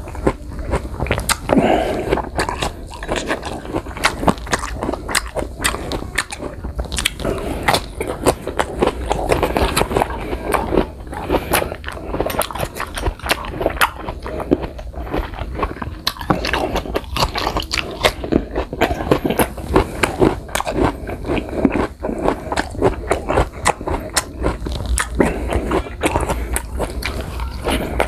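A person chewing raw green guava slices: repeated crisp, irregular crunching and biting mouth sounds.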